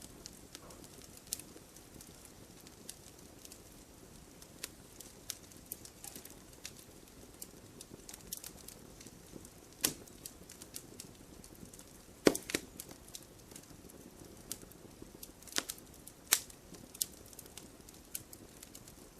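Wood fire in a fireplace crackling: irregular sharp pops and snaps over a soft steady hiss, the loudest a double snap about twelve seconds in.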